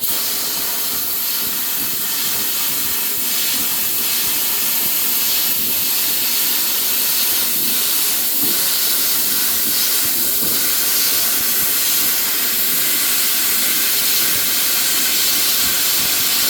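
Plasma cutter cutting through a steel truck frame: a loud, steady hiss that starts abruptly, holds for about sixteen seconds and cuts off suddenly.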